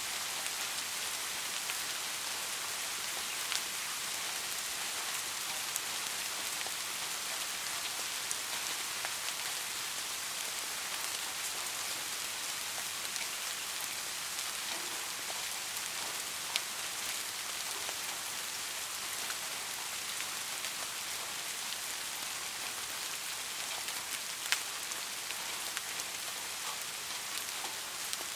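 Steady rain falling on a surface, an even hiss with individual drops ticking through it, a few of them sharper and louder, such as one about three-quarters of the way in.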